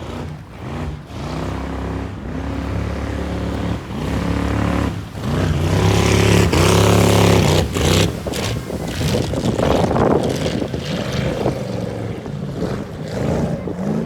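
1978 Nordic jet boat's engine being revved in repeated blips, each climbing in pitch and falling back, loudest and longest about six to seven and a half seconds in.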